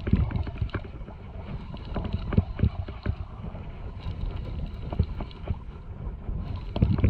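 Small fishing boat at sea: water knocking and slapping irregularly against the hull, with wind buffeting the microphone.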